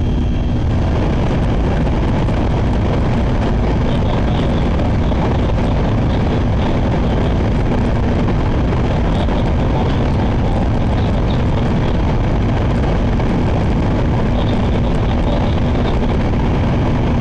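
Shinkansen passenger-cabin noise with the train running: a steady, loud rumble of wheels and air, with a low hum that fades about a second in and comes back near the end.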